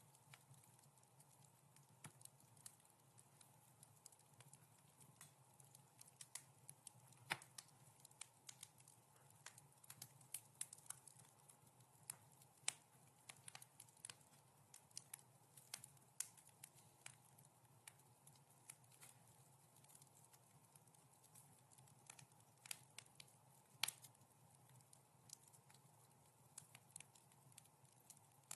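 Wood fire crackling in a fireplace: soft, irregular snaps and pops, a few sharper and louder than the rest, over a faint steady low rumble.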